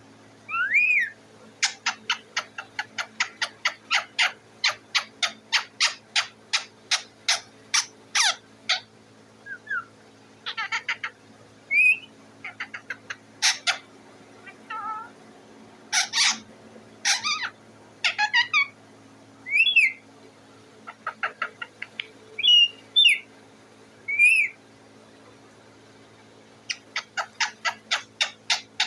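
A parrot calling. First comes a long run of short, sharp repeated calls, about three a second, then scattered squawks and short whistles that rise and fall, and near the end another quick run of calls.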